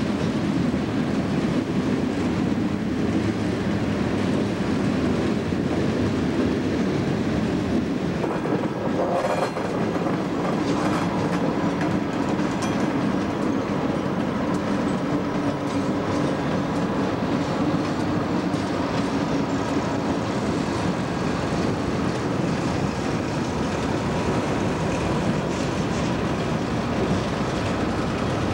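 Freight train rolling past, its cars' steel wheels making a steady rumble on the rails.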